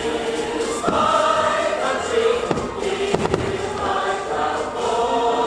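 A choir singing with orchestra over a fireworks show's sound system, with a few firework bangs about the middle: one near the first second, then a quick cluster a little after halfway.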